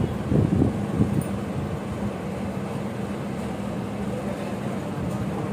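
Steady low mechanical hum, like a running engine or motor, with a few short louder sounds in the first second.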